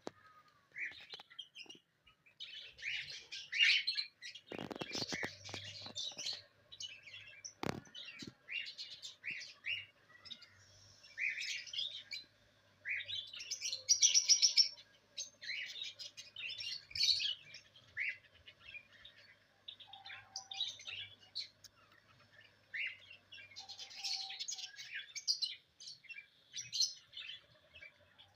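Small cage birds chirping in quick, overlapping bursts of high notes, with a few sharp clicks about five and eight seconds in.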